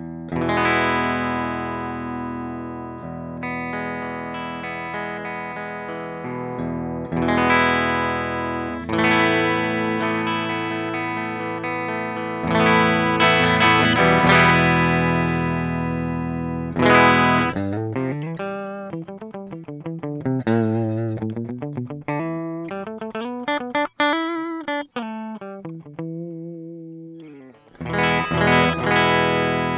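Vantage 635V semi-hollow electric guitar played through an amp with some distortion: ringing chords, each let sustain for a few seconds. About two-thirds of the way through comes a passage of single notes with wide bends and vibrato, and chords return near the end.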